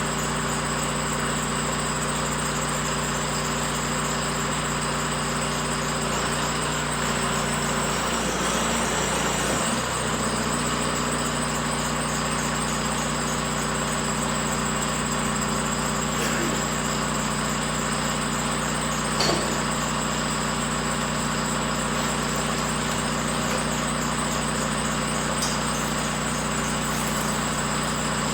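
An engine idling steadily, with a few faint knocks.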